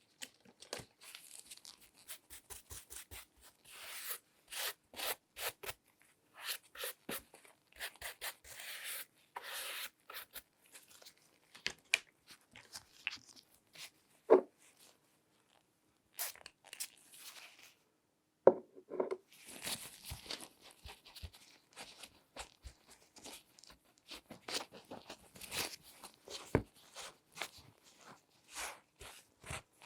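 Latex-gloved hands handling and examining a shoe: a busy run of short rubbing and scratching sounds, with a couple of sharper knocks about 14 and 19 seconds in.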